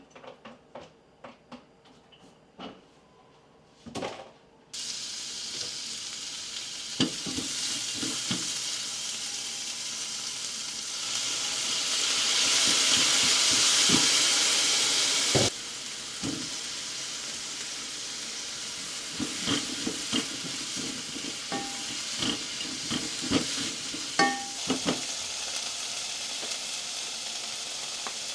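Food sizzling in a hot frying pan while a utensil stirs and scrapes it, with clinks against the pan. A few light taps come first, then the sizzling starts abruptly about five seconds in, swells louder around the middle and drops sharply about halfway through.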